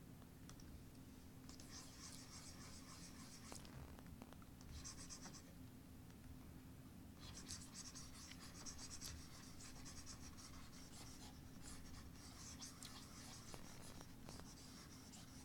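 Faint scratching of quick drawing strokes on a drawing surface, in runs: from about a second and a half in to three and a half seconds, briefly near five seconds, then almost without pause from about seven seconds to near the end. A faint steady low hum lies underneath.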